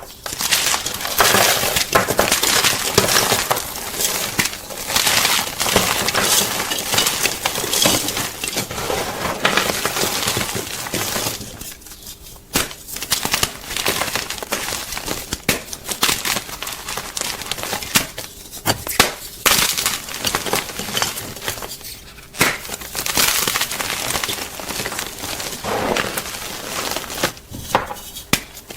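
Gym chalk being crunched: a close, dense run of crisp crackling crunches, with a few brief lulls.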